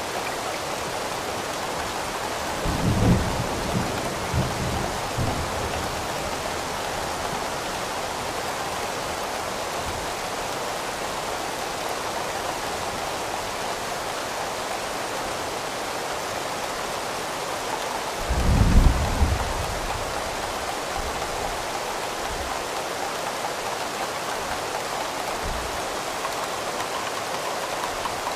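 Steady rain, with two short low rumbles of distant thunder, about three seconds in and again about eighteen seconds in.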